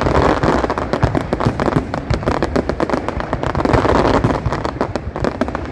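A fireworks display, with many shells bursting and crackling in a dense, continuous barrage of overlapping bangs.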